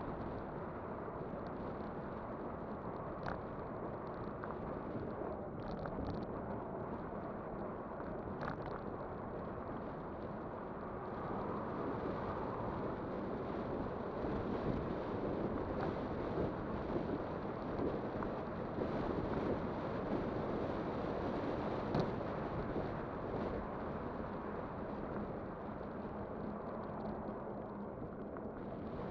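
Riding noise of a Kugoo Kirin V5 electric bike: a steady rush of tyres rolling and air moving past, with a few sharp clicks. It grows louder through the middle stretch, then eases off.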